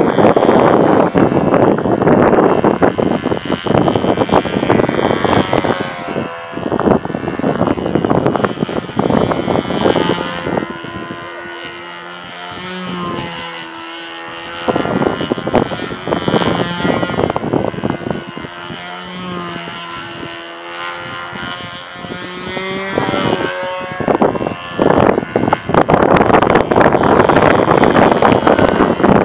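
Control-line model airplane's engine running as the plane flies laps, its note rising and falling as it circles. Strong wind buffets the microphone, loudest near the start and end.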